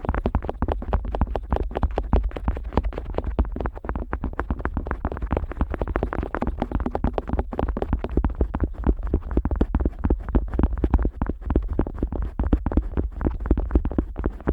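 An otoscope rubbing and scraping against the silicone outer ear of a Neumann KU100 dummy-head microphone, heard from inside the ear. It makes a fast, unbroken run of small scratches and clicks over a deep rumble.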